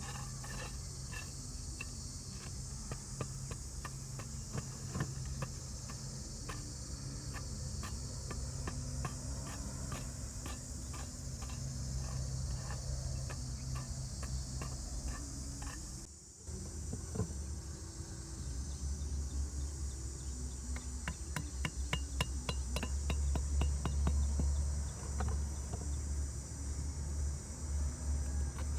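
Steady high-pitched insect chorus with a run of light, repeated tapping knocks. About sixteen seconds in the sound breaks off briefly; after it the taps come faster and a low rumble comes in.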